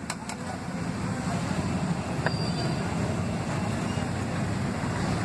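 Steady low rumble of street traffic, with a couple of faint clicks near the start and about two seconds in.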